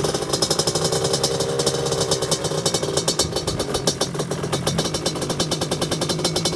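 KTM 65 SX two-stroke single-cylinder engine running steadily on choke, just started from cold, with a fast, even pulsing exhaust note.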